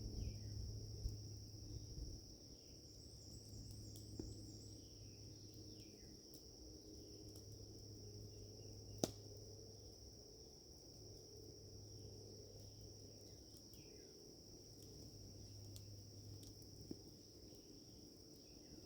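Faint, steady high-pitched insect chorus outdoors, with short falling chirps now and then and a single sharp click about nine seconds in.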